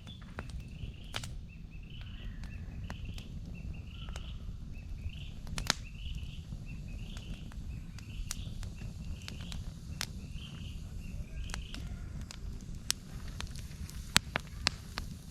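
Wood campfire crackling, with scattered sharp pops over a low steady rumble and a few louder pops near the end. A bird calls over it, a short call roughly every two-thirds of a second, stopping about three-quarters of the way through.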